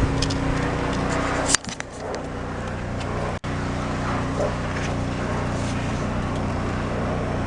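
A steady low mechanical hum with a pitch that holds level, broken by a sharp click about a second and a half in and a brief dropout about three and a half seconds in.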